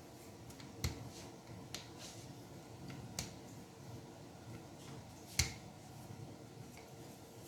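Rolling pin working dough on a cutting board: quiet rolling with a few sharp knocks and clicks, the loudest about five seconds in.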